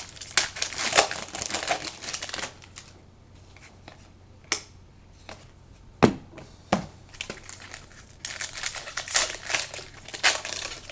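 Football trading-card pack wrappers being crinkled and torn open by hand, a crackling rustle that dies down in the middle. In the quieter middle part come three sharp clicks, the second the loudest, before the crinkling starts up again near the end.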